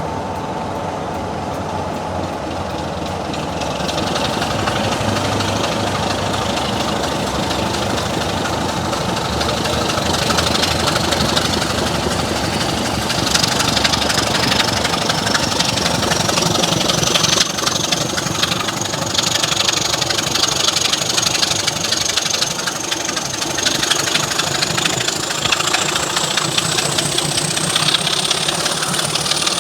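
Class 26 diesel-electric locomotive's Sulzer six-cylinder engine working under load as the train pulls away, getting louder in the first few seconds. A high whine climbs steadily in pitch as the train gathers speed.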